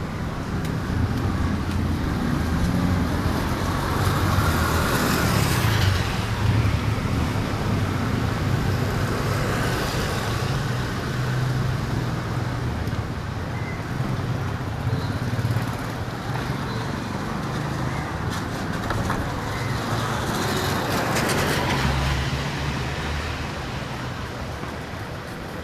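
Street traffic: engines running under a steady wash of road noise, with vehicles passing close by about five seconds in and again a little after twenty seconds.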